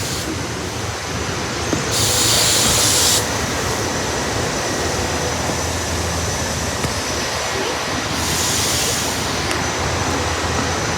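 SEPTA Silverliner IV electric train cars moving past at close range, a steady rumble of wheels on rail, with two short bursts of hiss about two seconds and eight seconds in.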